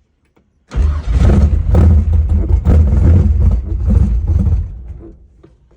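A 1963 Chevy Nova drag car's engine starts after years of sitting and runs loud and rough for about four seconds, then fades away near the end.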